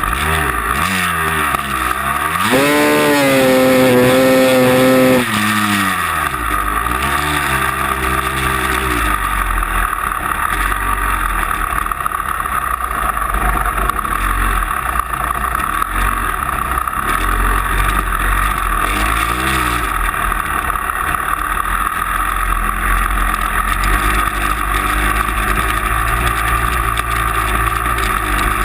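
Motor vehicle engine revving: it climbs and holds at high revs for about three seconds near the start, then runs on with smaller rises and falls in revs.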